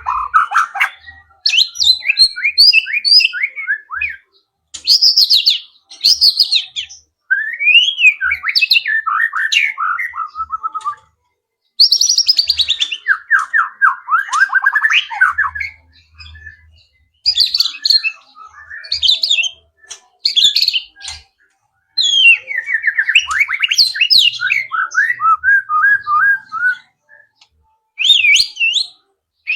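White-rumped shama singing a loud, varied song. It comes as a string of short phrases of rapid trills, whistled glides and quick chattering notes, with brief pauses between them, and it is full of imitations of other wild birds' calls.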